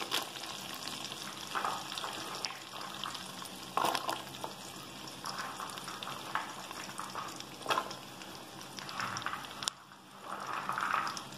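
Diced carrots sizzling as they fry in melted butter with whole spices in a pressure cooker, with a few brief knocks scattered through.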